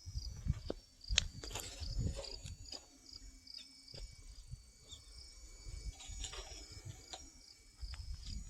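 Steady high-pitched insect chirping in short repeated phrases, with scattered sharp clicks and knocks and intermittent low rumbling.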